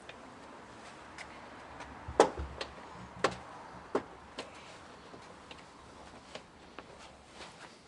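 Irregular clicks and light knocks of hand tools and plastic trim clips while a car's front bumper fasteners are undone with a screwdriver, the loudest knock about two seconds in.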